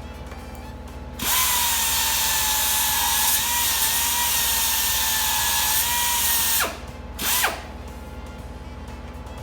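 Handheld electric power tool running for about five seconds, a steady high motor whine under a loud hiss, then winding down, followed by a short second burst.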